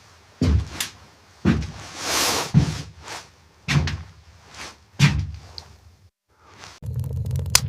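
A series of five dull thuds about a second apart, as from tool or hand blows during shelter building. Near the end the sound switches suddenly to a steady low rumble with crackling.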